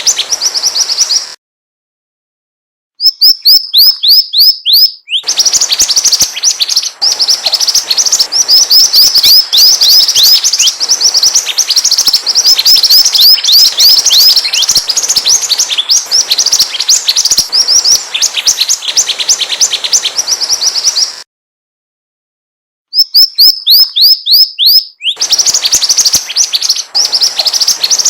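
Mantenan songbird chirping in a fast, unbroken series of short, high, downward-sliding notes, several a second; it cuts off into silence twice, about one and a half seconds in and again about twenty-one seconds in, then resumes.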